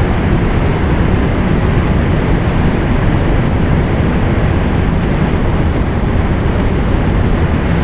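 A steady, loud rush of water, heavy in the low end and unchanging, with no separate splashes or drips standing out.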